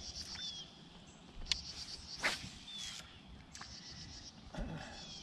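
Faint bird chirps: several short, high, falling notes, with bursts of rapid high ticking and a few sharp clicks in between.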